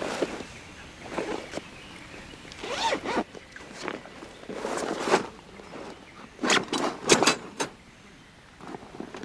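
Zipper being pulled in a series of short rasping strokes, with a quick run of several strokes about two-thirds of the way in.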